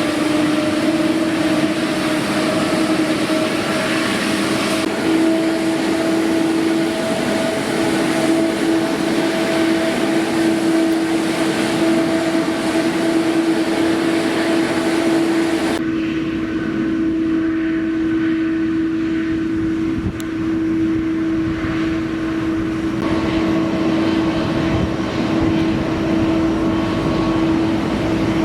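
Airliner engines running with a steady droning tone over a rushing hiss; the high hiss drops away suddenly a little past halfway.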